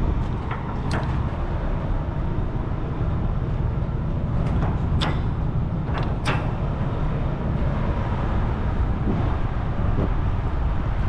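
Heavy diesel engine running steadily with a low rumble, with a few sharp clicks and knocks in the middle of the stretch.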